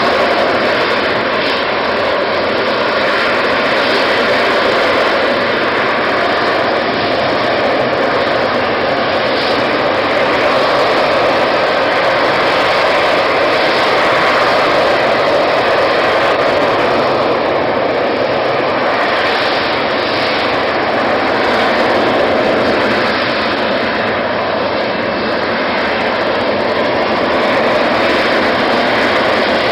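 Aircraft engine noise, steady and loud, swelling and easing slightly as it goes on.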